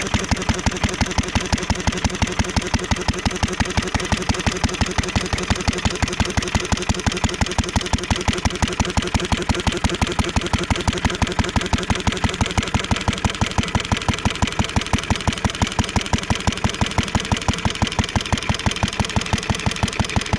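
International Harvester Model LB single-cylinder, throttle-governed stationary engine running steadily, its firing beat even and unchanging, held at a constant speed by the governor.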